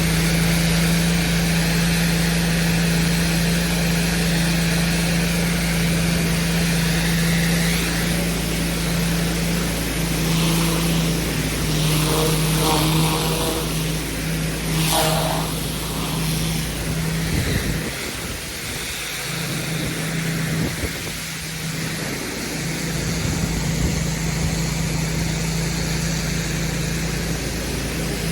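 Petrol pressure washer engine running steadily under a hiss of water spray. Around halfway through, the low engine hum drops away for a few seconds, then returns.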